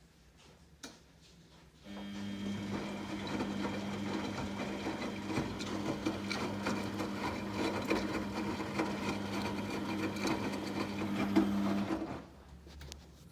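14-year-old Samsung washing machine spinning at about 1000 RPM with a badly unbalanced load: a steady mechanical drone with rapid rattling and ticking. It starts abruptly about two seconds in and cuts off near the end. This is the weird noise that the owner suspects comes from worn drum bearings.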